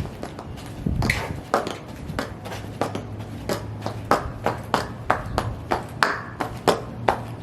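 High heels stomping, a steady run of sharp heel clicks about two to three a second.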